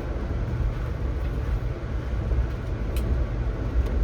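Steady low rumble of an Amtrak passenger train running along the track, heard from inside the passenger car, with one sharp click about three seconds in.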